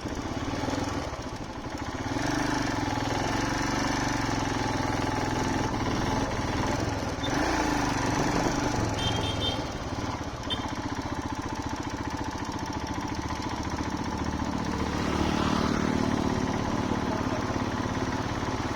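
Motorcycle engine running steadily while riding, under a haze of wind and road noise. Its note shifts a few times as the speed changes.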